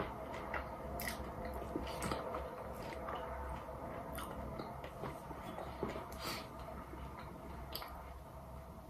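A person chewing a mouthful of soft flour-tortilla wrap with the mouth closed, with a few short, sharp clicks spaced a second or two apart over a steady low hum.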